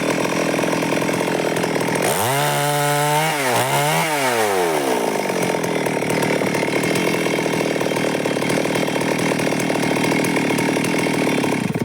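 Stihl MS 382 two-stroke chainsaw cutting wood. About two seconds in, the engine drops off toward idle and revs back up twice, then runs steadily at high revs in the cut until it cuts off suddenly near the end.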